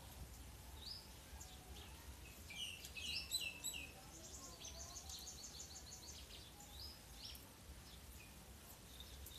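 Small birds chirping: a cluster of quick downward-sliding calls about three seconds in, then a fast run of repeated high notes, over a faint low steady hum.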